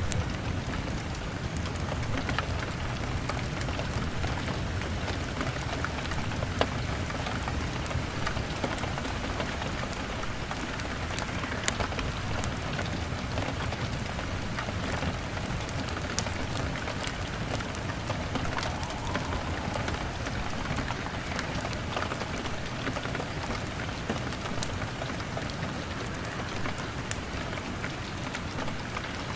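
Steady rain on a window pane, a constant hiss of drops, mixed with a log fire crackling in scattered sharp pops.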